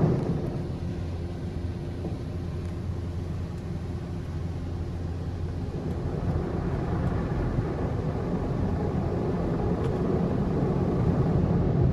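Istobal M1 rollover car wash machine running over the car, heard from inside the cabin: a steady low rumble with a machine hum. It eases a little after the first second and builds again toward the end.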